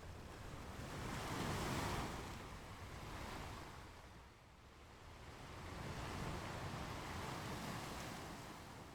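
Ocean waves washing onto a beach: two swells of surf, the first peaking about two seconds in, the second fading out near the end.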